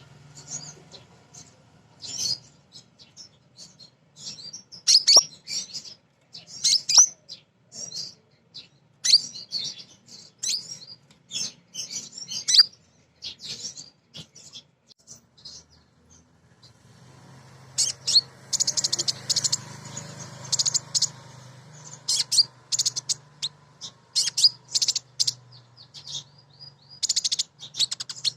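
Female sunbird ('kolibri ninja') calling for a male: rapid, sharp, high chirps in irregular clusters, densest about two-thirds of the way through, with a faint steady hum underneath from that point on.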